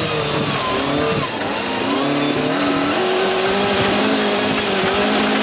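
A 1988 VW Golf GTI rally car's four-cylinder engine heard from inside the cabin, driven hard along a gravel stage. Its revs rise and fall through the first few seconds, then hold a steady note, with tyre and gravel noise underneath.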